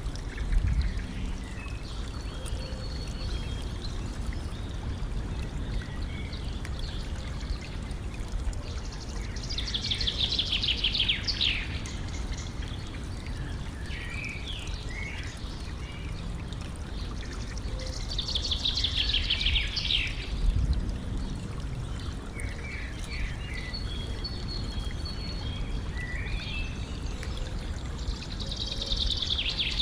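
A stream trickling and splashing steadily, with songbirds singing over it: a loud trilled phrase that falls in pitch recurs three times, about eight or nine seconds apart, with shorter chirps between.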